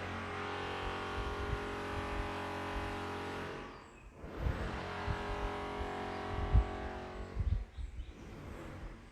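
A motor vehicle's engine running at a steady pitch, in two stretches of about three and a half seconds with a brief dip between them, plus a few low thumps in the second half.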